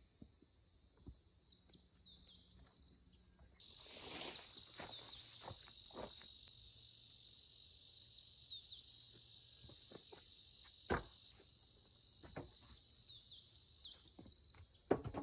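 Steady high-pitched chorus of insects such as crickets or cicadas, with scattered sharp knocks and clicks, one louder knock about eleven seconds in and a cluster of knocks near the end.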